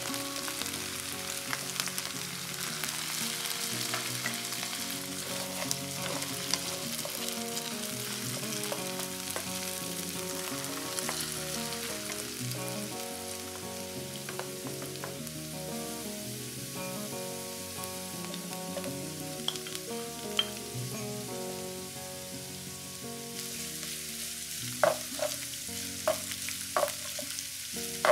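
Diced potatoes frying in oil in a non-stick pan, a steady sizzle, stirred with a wooden spoon. The sizzle eases a little past the middle, and near the end come several sharp clicks and knocks against the pan.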